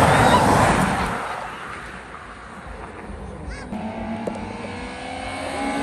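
A car passes loudly, its noise peaking at the start and fading away over about two seconds. Then, a little over halfway through, a steady engine hum sets in from another car running at an even speed.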